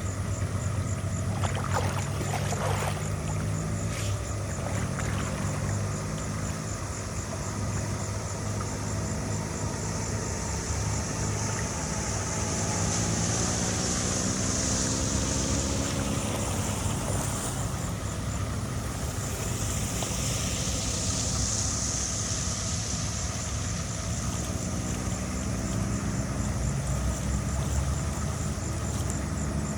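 A machine's engine running steadily, its pitch rising and falling as the load changes, with a high hiss that swells in the middle.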